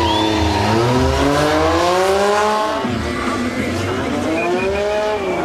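Sport motorcycle engine revving hard in a stunt run. Its pitch climbs, drops sharply about three seconds in, then climbs again.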